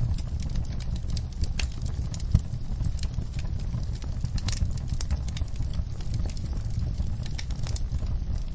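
Wood fire in a fireplace crackling: irregular sharp pops and snaps over a steady low rumble, with one louder pop a little over two seconds in.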